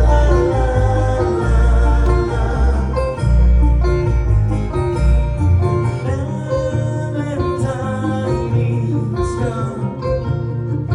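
Live bluegrass-style band playing: plucked banjo and guitar over bass, with singing. The deep bass thins out about halfway through.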